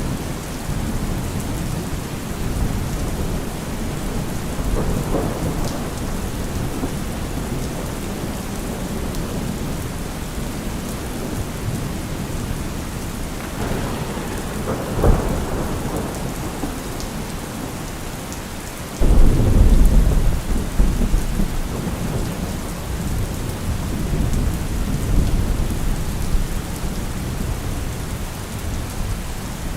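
Steady heavy rain with rolling thunder. A sharp crack comes about halfway through, then a loud, deep thunder rumble starts suddenly about two-thirds of the way in and fades over several seconds.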